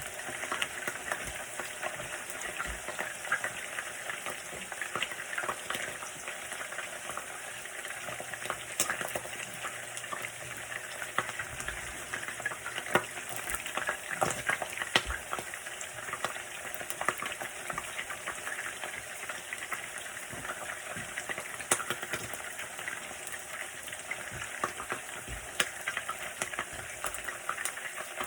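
A bird frying in hot grease: a steady sizzle with frequent sharp pops and crackles throughout.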